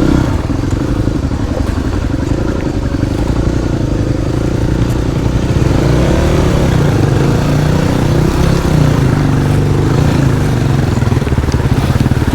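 Motorcycle engine running under load as the bike rides through a river crossing. The engine note wanders at first, then settles lower and steadier about halfway through.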